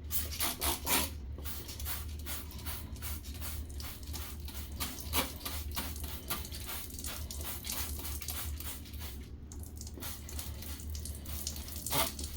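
Water splashing and squishing as a dirty vacuum filter is rinsed and worked by hand under running water, in many irregular short strokes over a steady low hum.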